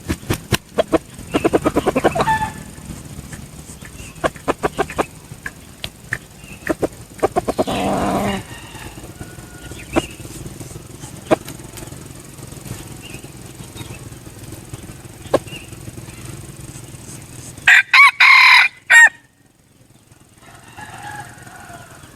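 Junglefowl cock crowing: a short crow about eight seconds in and a loud crow near the end. Sharp clicks and clucks come in the first seconds.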